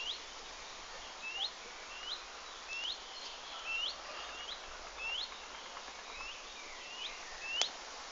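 A small bird calling over and over: short chirps that rise at the end, about one every two-thirds of a second. A single sharp click sounds near the end.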